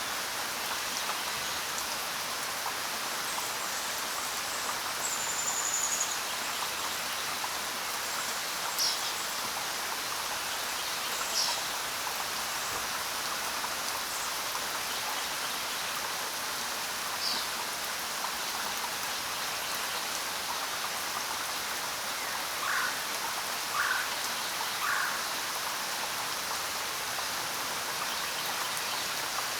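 Steady rain falling, with a few brief bird chirps scattered through it and three short, lower bird calls about a second apart near the end.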